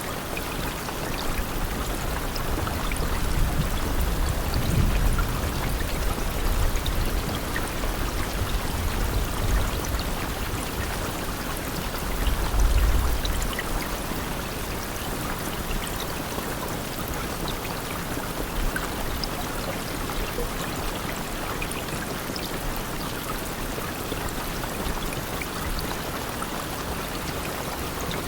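Steady rain: a continuous even hiss with scattered small drop ticks. A low rumble swells in the first half, loudest about twelve seconds in, then dies away.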